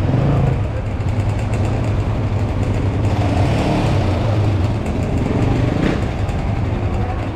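Motorcycle engine running steadily, its pitch shifting a little in the middle.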